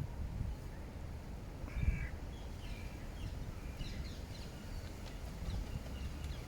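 Faint, short bird calls: a couple about two seconds in, then a scatter of higher ones a second or two later, over a steady low outdoor rumble.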